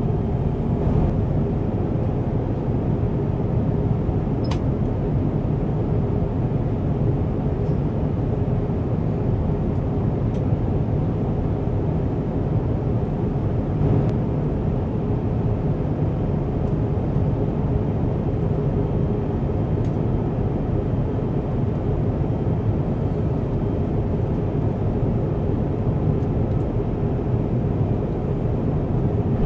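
Steady in-flight cabin noise of an Airbus A350-1000 airliner: a constant low rush of airflow and engine noise with a faint steady hum, and a small tick about four seconds in.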